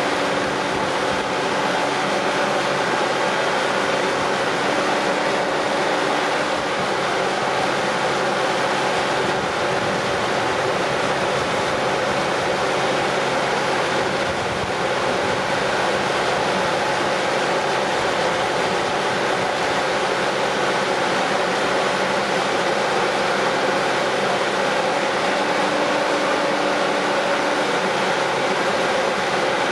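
Boatyard machinery running steadily: a constant engine hum under a broad, even hiss.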